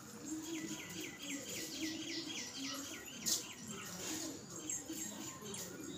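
Small bird calling in a quick series of short, falling chirps, about four a second, with a single sharp click about three seconds in.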